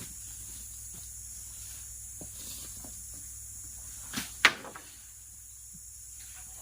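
Steady high-pitched insect chorus in the forest, with a few short knocks of things being handled at camp, the loudest about four and a half seconds in.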